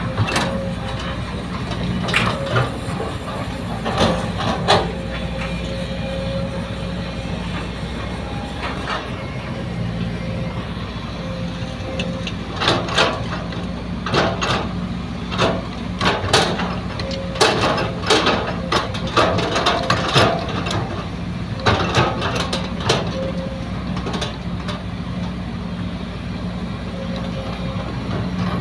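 Heavy diesel earthmoving machinery running steadily, an excavator loading a dump truck, with repeated sharp clanks and knocks over the engine drone. The knocks come thickest in the middle stretch.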